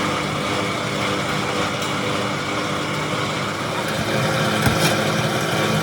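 Tyre-factory machinery running steadily with a constant hum of several tones, getting a little louder about four seconds in, with a single sharp knock shortly after.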